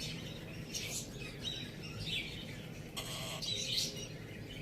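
Birds chirping: short, high calls every second or so, over a steady low background hum.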